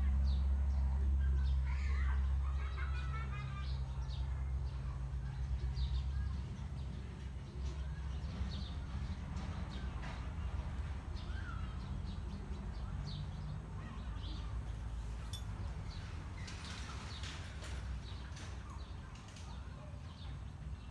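Birds chirping in short scattered calls over a steady low hum, which is louder for the first six seconds or so and then weakens.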